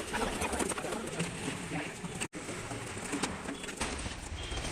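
Birds calling, with dove-like cooing, over a background of mixed noise.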